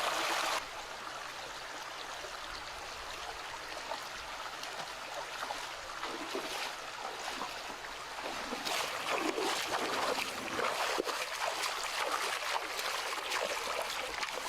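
Stream water flowing with a steady rushing and trickling, a little louder in the second half.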